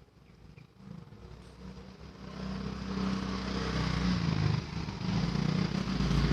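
A vehicle engine running, growing louder from about a second in and holding steady.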